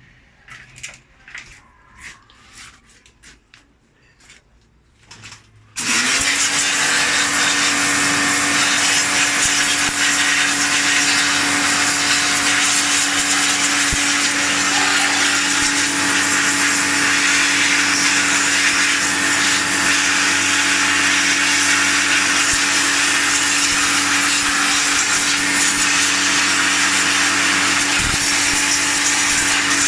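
Several light clicks and knocks, then about six seconds in an electric machine switches on and runs steadily at full speed: a loud, even rushing hiss over a constant motor hum.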